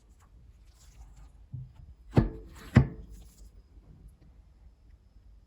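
Two sharp knocks of hard objects, about half a second apart, among faint handling rustles.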